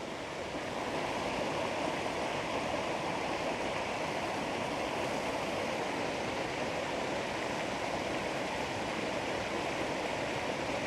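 Creek water running over rocks close to the microphone: a steady, even rush.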